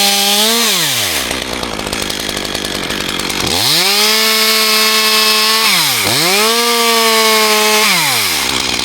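Chainsaw engine at full throttle, dropping to idle about a second in, then revved back up for about two seconds. It dips briefly, returns to full throttle, and is released to idle near the end.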